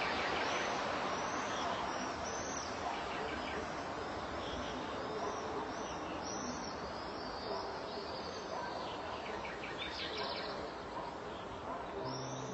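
Songbirds chirping in short, repeated calls over a steady outdoor hiss, with a quick trill about ten seconds in.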